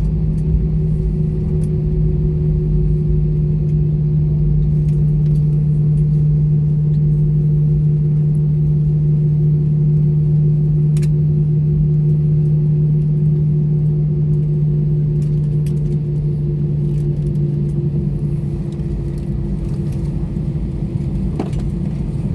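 Airbus A320 after landing: a steady low mechanical drone with a strong hum that sinks slightly in pitch and eases off a little near the end, with a few faint clicks.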